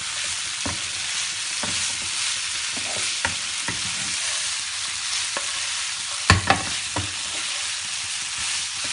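Tofu and bean sprouts sizzling in oil in a frying pan while a wooden spatula stirs them, scraping and tapping the pan, with a louder knock about six seconds in.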